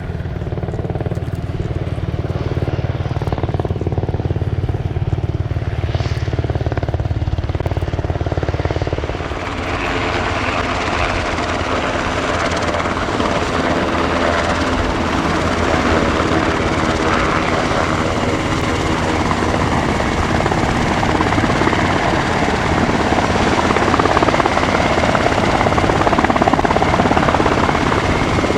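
SH-60K Seahawk helicopter's twin turboshaft engines and rotor running, with a low rhythmic rotor throb. About nine seconds in the sound turns fuller and brighter, with steady whining tones over a dense rush of rotor noise.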